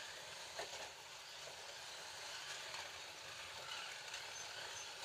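Several Scalextric slot cars lapping a plastic track: a steady whir and rattle from their small electric motors and tyres, with a click a little over half a second in.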